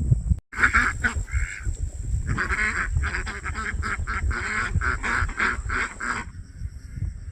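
Ducks quacking, a quick run of short repeated calls that stops about six seconds in.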